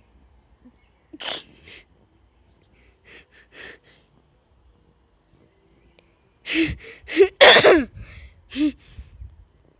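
A person's breathy vocal noises: a short puff about a second in and a few softer ones around three seconds, then a louder run of sneeze-like bursts and short voiced sounds from about six and a half seconds in.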